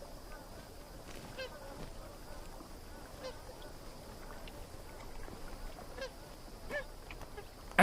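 Magpie geese giving short, scattered honking calls, a handful spread over several seconds, against a faint steady background.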